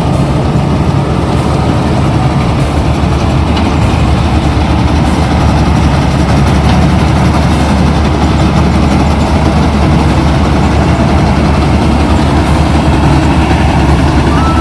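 Kubota combine harvester running steadily at a constant, loud engine note.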